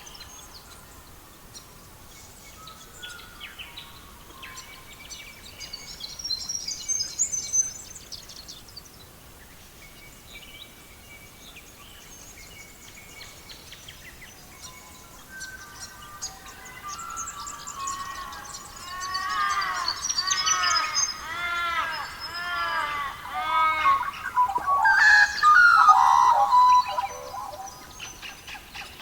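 Several songbirds singing and chirping: high twittering, then a run of repeated rising-and-falling whistled notes at about two a second, with the loudest warbling phrase near the end.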